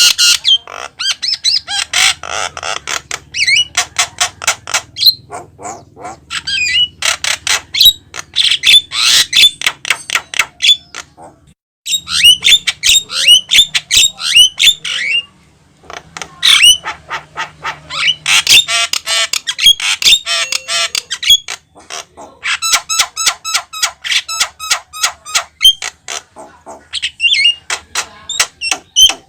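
Javan myna calling and singing in long rapid runs of harsh squawks and chirps, broken by brief pauses about twelve and fifteen seconds in.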